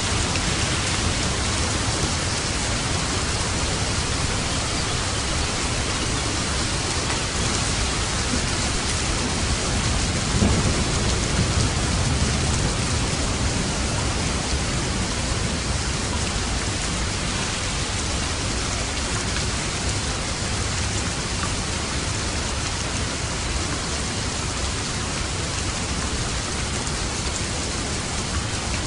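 Steady heavy rain falling, with a low rumble of light thunder swelling briefly about ten seconds in.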